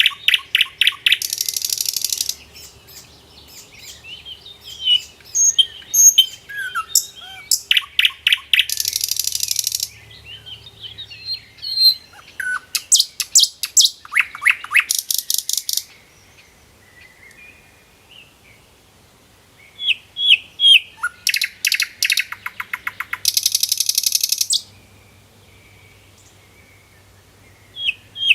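A bird chirping and singing, with several bursts of very rapid trilling notes, each lasting a few seconds, separated by single high chirps and two short quiet stretches.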